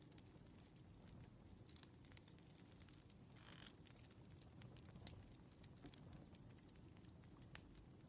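Faint crackling of a burning wood fire, irregular small pops and snaps over a low steady bed, with a brief soft rustle about three and a half seconds in.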